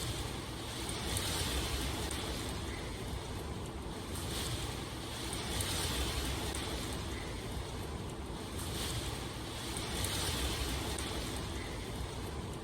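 Steady rainfall, a continuous hiss that swells and eases every few seconds.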